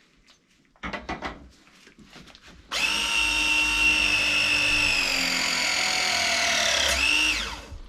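Battery-powered ProPress tool pressing a copper pipe fitting: after a few handling clicks, its motor whines steadily for about four seconds, the pitch sagging slowly as the jaws close on the fitting, then gives a short higher whir and winds down.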